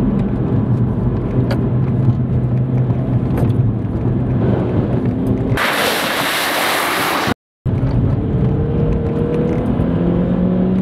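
Remapped BMW 116i's four-cylinder engine heard from inside the cabin under hard acceleration, a steady drone that climbs in pitch in the last few seconds as it keeps pulling. In the middle, about two seconds of loud hissing spray as the car drives through a deep puddle, ending abruptly.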